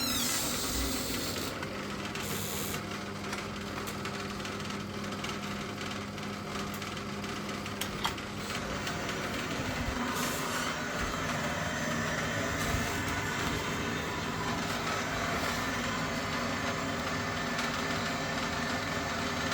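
Worcester-Bosch combi boiler running steadily with a mechanical hum, back in operation after its circuit board was replaced to clear an H09 pump-communication fault. A single sharp click comes about eight seconds in.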